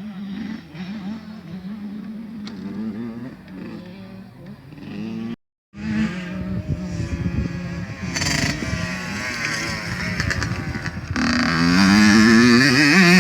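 Two-stroke motocross bike engines running on the track, with the pitch wavering as the throttle comes on and off. The sound drops out abruptly for about half a second a little before the middle, then in the last two seconds a bike revs up hard and loud, its pitch climbing.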